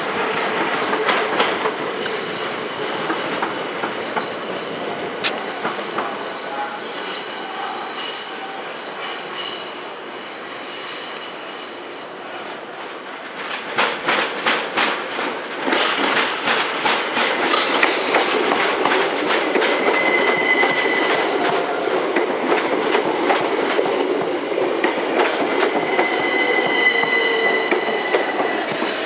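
Southern Class 377 electric multiple units at a platform: one pulls away and fades over the first dozen seconds. Then another arrives, its wheels clicking rhythmically over rail joints and points, with short high wheel squeals in the second half.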